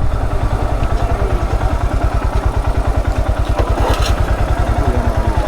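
A motorcycle engine idling close by, a fast, even putter of about ten beats a second.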